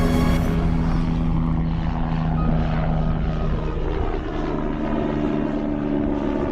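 Radio-controlled scale helicopter's electric motor and rotor running with a steady hum, the pitch shifting slightly about four seconds in.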